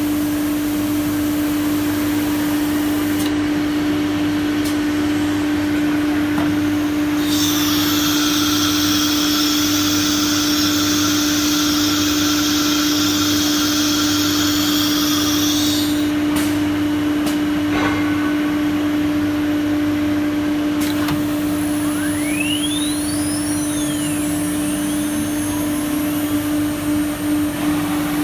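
Automatic-tool-changer CNC router running, its spindle giving a steady hum. For about nine seconds in the middle a loud hiss joins it, and near the end brief rising and falling whines sound.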